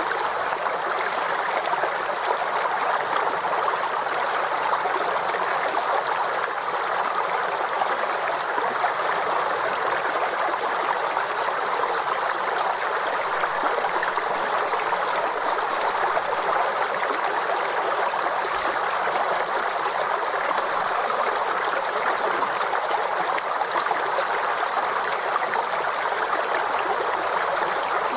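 Forest stream flowing steadily over rocks, a continuous even rush of water with light gurgling.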